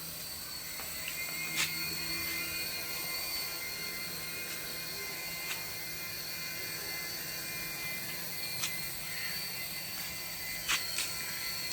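Small electric motor of a remote-control toy running steadily with a high-pitched whine, with a few sharp clicks now and then.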